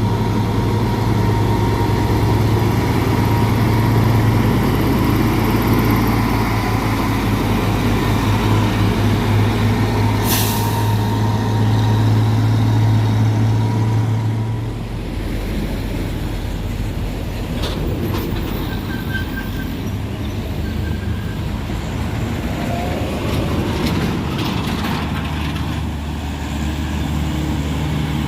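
Heavy diesel truck engine labouring up a steep grade under load, with a strong low steady engine note that drops away about fourteen seconds in as other engines carry on. A short sharp hiss, like an air brake release, about ten seconds in.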